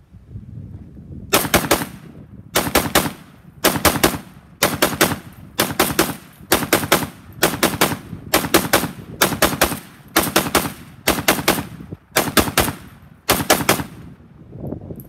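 Rifle fired rapidly from a 75-round drum magazine: a long string of sharp shots in quick clusters, starting just over a second in and stopping about a second before the end. Wind rumbles on the microphone between shots.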